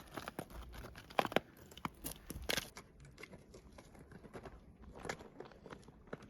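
Irregular crunching and crackling, typical of footsteps on frozen snow and gravel, with a few louder crunches in the first half.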